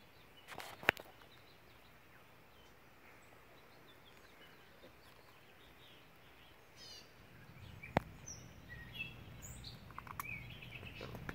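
Quiet outdoor ambience with birds chirping, mostly in the second half. Two sharp clicks stand out, one about a second in and one near eight seconds in, and a low rumble builds in the last few seconds.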